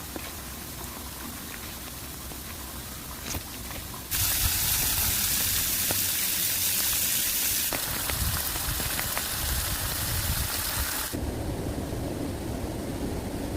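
Steady rain and running water noise, jumping much louder about four seconds in and shifting abruptly twice more.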